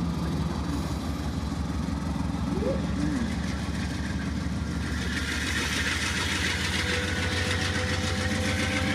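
Freight train passing: a steady diesel engine hum, joined about five seconds in by rising rolling wheel-on-rail noise, with a faint steady whine near the end.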